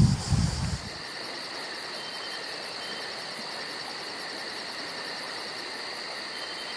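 Insects chirping in summer vegetation, a very high pulsing trill at about five pulses a second over a steady hiss. Wind buffets the microphone during the first second.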